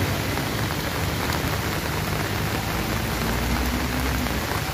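Heavy typhoon rain pouring down steadily, an even hiss, with a low hum underneath.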